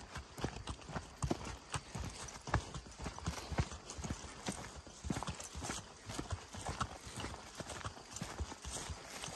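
Footfalls on a forest path: a steady run of irregular knocks and thuds, several a second.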